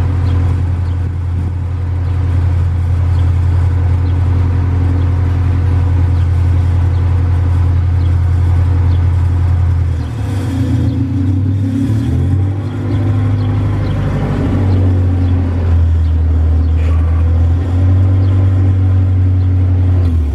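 Acura Integra's four-cylinder engine idling steadily, then from about halfway through revving, its pitch stepping up and down.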